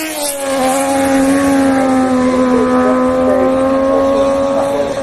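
MotoGP race motorcycle engine running at high revs on the circuit; its pitch drops just at the start, then holds a steady, high-revving note.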